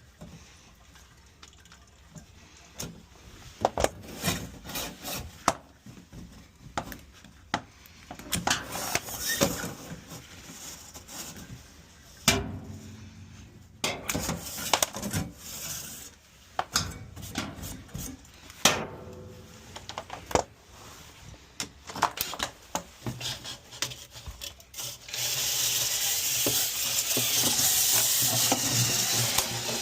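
Irregular scraping, rubbing and knocking as lint and debris are worked out of a clogged dryer vent duct. About 25 seconds in, a louder steady rushing noise with a low hum starts and keeps going.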